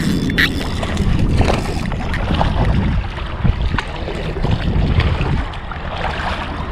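Wind buffeting the microphone in a steady low rumble, with water lapping and splashing around a kayak and a few short knocks.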